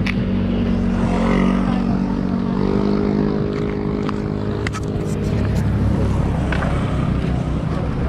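A vehicle engine running close by with a steady hum that grows fuller about two and a half seconds in, under a low rumble, with a few sharp clicks.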